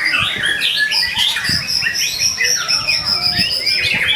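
White-rumped shama (murai batu) singing a full, unbroken song of rapid whistles, trills and chattering notes, with a long high whistle held through the middle.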